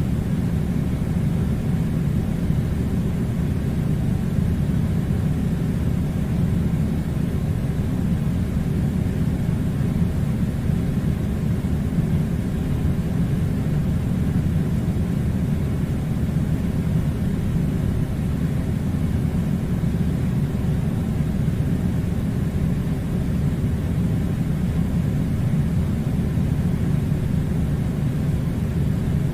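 Steady low rumbling noise that does not change at all, with no pitch, rhythm or separate events.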